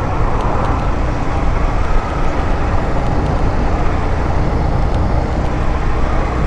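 A 150cc motorcycle riding at a steady speed on the road: a loud, even rush of engine, road and wind noise with no change.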